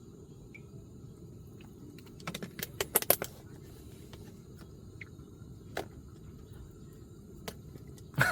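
Scattered light clicks and clinks, with a quick run of them about two to three seconds in and a few single ones later, over a steady low background rumble.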